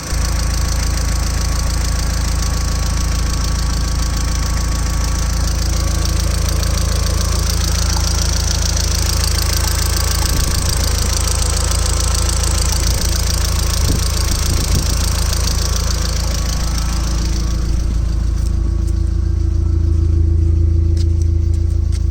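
Audi TT 225's 1.8-litre turbocharged four-cylinder engine running steadily, with a bright hiss over it that drops away about three-quarters of the way through; the engine gets a little louder near the end.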